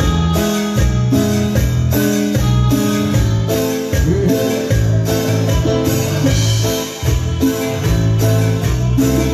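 A band playing live at a sound check, with guitar, bass and drums and a steady beat.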